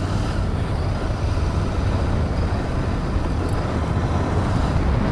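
Royal Enfield Interceptor 650's parallel-twin engine running with a steady low rumble.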